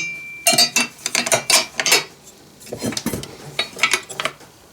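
Small metal parts clinking and clattering in irregular knocks as a chainsaw muffler and cover are handled and tried in place on the saw, with a brief metallic ring at the start.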